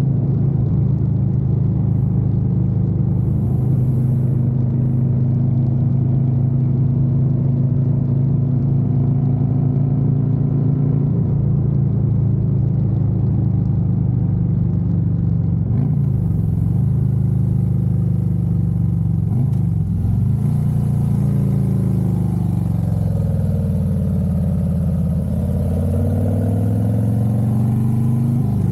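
Harley-Davidson Road Glide's V-twin engine running steadily at road speed, heard from the rider's position. Its pitch steps down about eleven seconds in, dips briefly twice, then falls away and climbs back up near the end as the bike slows and picks up speed again.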